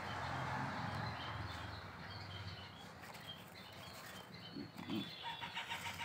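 Faint, short, high bird chirps repeat throughout, with a hiss in the first couple of seconds and a buzzier call carrying several tones near the end.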